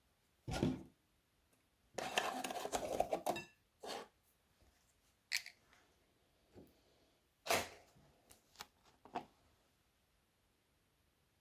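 Crunchy slime being squeezed and worked by hand, crackling. There is a dense run of crackling about two seconds in that lasts over a second, and several separate short crunches and clicks before and after it.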